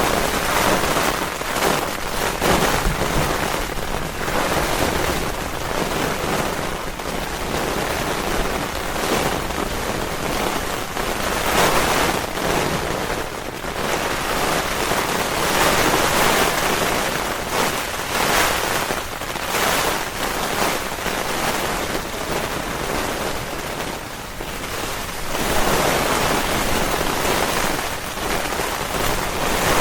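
Heavy thunderstorm rain and wind, a steady loud rush that swells and eases with the gusts several times.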